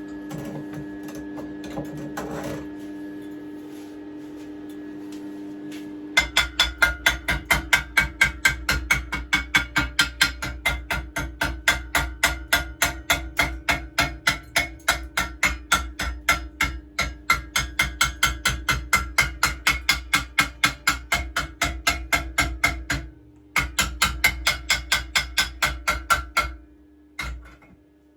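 Chipping hammer knocking the slag off a fresh stick weld on a steel pit bike swing arm: rapid, even metal strikes at about four a second, with a short break and a few last strikes near the end. A steady hum runs under it.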